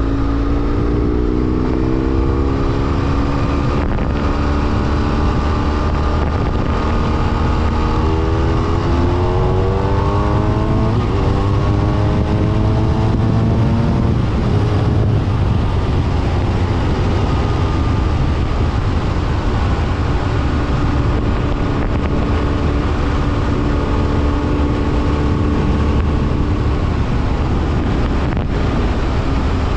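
BMW F800R's parallel-twin engine running under way, with a heavy low rumble of wind on the microphone. The engine note climbs in pitch from about eight seconds in as the bike accelerates, then settles into a steady cruise.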